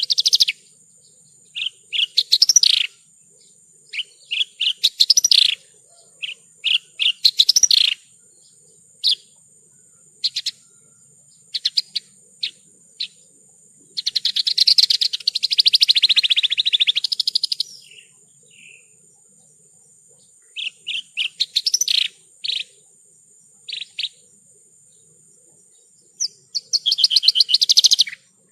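Javan bush lark (branjangan) singing: a string of short, quick song phrases with gaps between them, and one long rapid trill lasting about four seconds near the middle. A constant faint high-pitched tone runs underneath.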